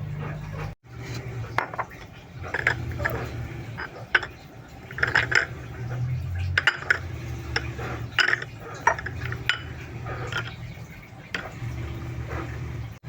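Kitchen utensils clinking and scraping against dishes and bowls in irregular short clinks, over a steady low hum.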